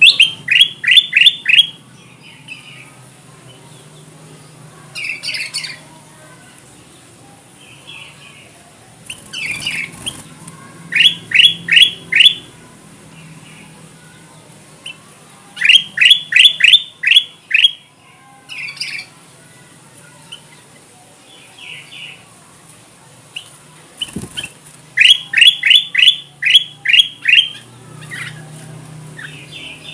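Kutilang emas bulbul singing: loud runs of four to six quick, falling whistled notes, repeated every five seconds or so, with softer calls in between. This is a lure song used to draw wild birds of its kind.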